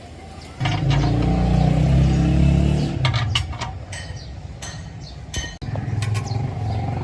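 A motor or engine running with a low hum, loud for about two seconds from half a second in and then quieter, with scattered metallic clicks and clinks; it cuts off abruptly near the 6-second mark and a similar low hum resumes.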